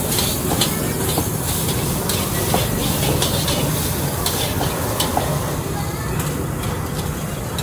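Busy street-food kitchen: a steady sizzling hiss of food frying, with scattered knocks and clinks of utensils, over a low steady rumble.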